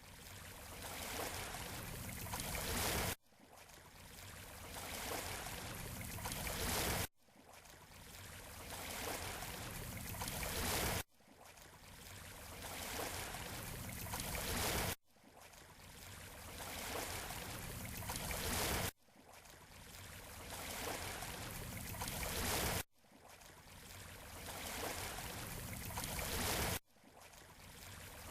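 Surf on a beach shore: a short recording of a wave swelling that repeats about every four seconds. Each wave builds up steadily and then cuts off abruptly at the loop point.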